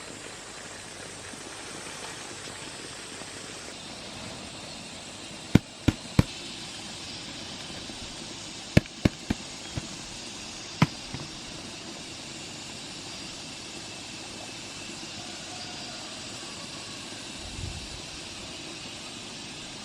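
A handful of sharp cracks or knocks in two quick clusters over a steady outdoor hiss, with a soft low thump near the end.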